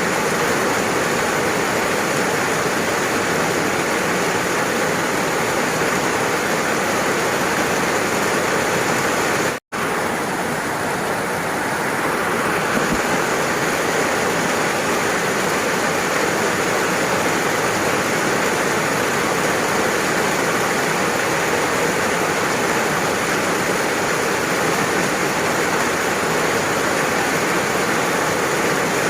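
Steady rain, an even hiss with no single sound standing out. About ten seconds in, the sound cuts out for a split second and then resumes.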